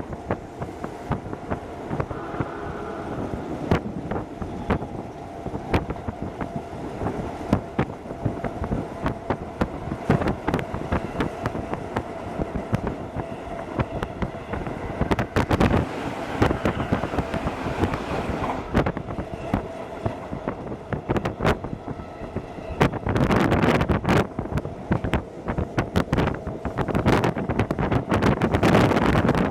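Running noise of a Hokuso Railway 7260 series electric train heard from inside the carriage: a steady rumble of wheels on the rails with many sharp clicks and knocks from the track and a faint steady hum. It grows louder and rushier about three-quarters of the way through and again just before the end.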